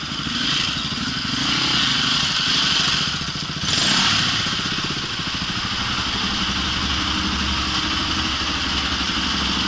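Dirt bike engine running as the bike is ridden, its note wavering with the throttle for the first few seconds and then holding steadier. A loud hiss comes in suddenly about three and a half seconds in.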